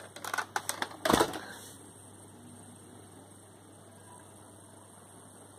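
A quick run of light plastic clicks and clatter as a Nerf blaster and its magazine are handled, the loudest knock a little over a second in. After that only faint room noise is left.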